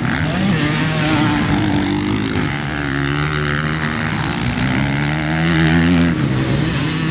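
Motocross dirt bike engines revving on the track, several at once, their pitch rising and falling as the riders work the throttle and shift.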